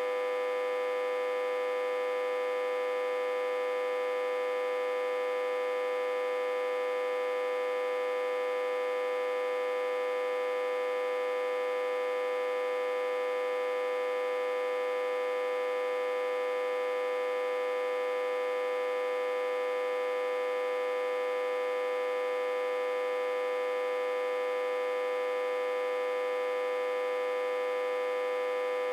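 Autotransformer humming steadily, fed in reverse from a step-down transformer at about 60–80 V input. It is a constant buzzy hum with one strong mid-pitched tone and many overtones above it, and it never changes.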